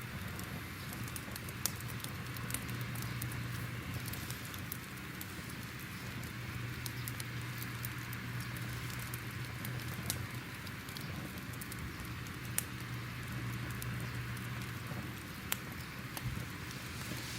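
Crackling fire: a steady low rumble with irregular sharp pops and crackles scattered throughout.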